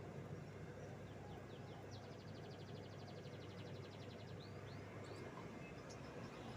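Canary singing faintly: a few short high chirps, then a rapid even trill lasting about two seconds, then more chirps, over a steady low hum.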